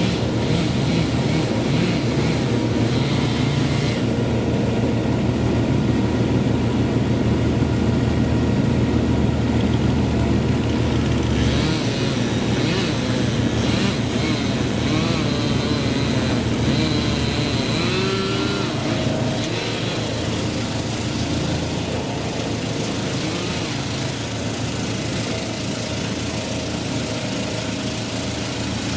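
Engine of tree-removal equipment running steadily under load; its deepest rumble drops away about twelve seconds in.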